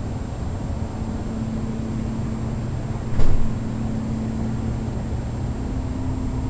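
Two Carrier upflow gas furnaces with their indoor blowers running steadily for central air conditioning: a steady low hum. A short knock about halfway through.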